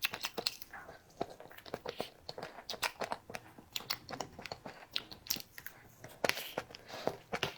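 Close-up eating sounds: a person biting and chewing grape cake, with many quick irregular wet clicks and smacks of the mouth.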